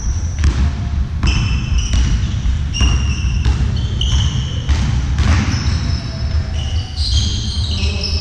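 A ball striking a sports hall floor again and again, with many short, high squeaks of trainers on the court and a low rumble of the hall.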